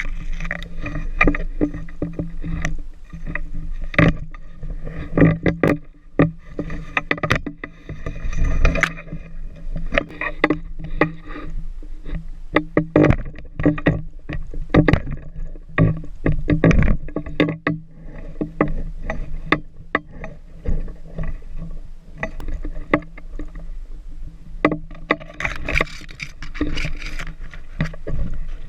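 Irregular knocking, clattering and rubbing close to the microphone, with a steady low hum underneath, as a pole-mounted insulator picker is worked up a utility pole to reach a glass insulator.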